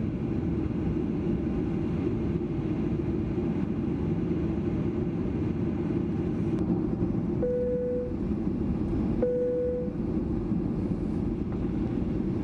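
Steady cabin noise of a Boeing 737-800 airliner, a low, even roar of the engines and airflow heard from a passenger seat. Two short steady tones sound about a second and a half apart, past the middle.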